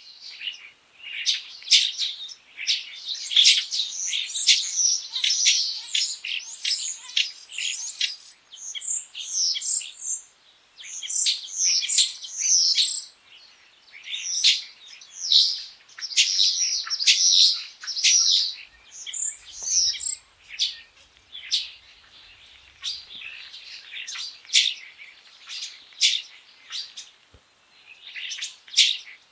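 Common starling singing: a long, rambling run of rapid whistles, chirps, rattles and clicks that thins out into sparser notes in the last third.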